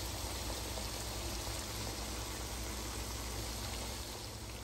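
Pork pieces with onion, garlic and tomato sizzling steadily in oil and meat juices in a nonstick wok.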